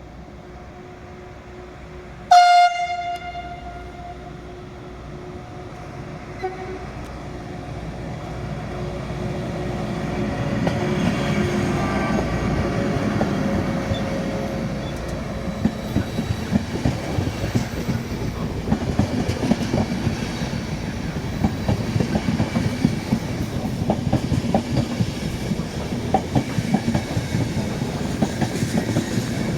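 Freight train coming through the station: a single short, loud horn blast about two seconds in, then the train's rumble builds as it approaches, and the wagons' wheels click rapidly and steadily over the rail joints as it passes.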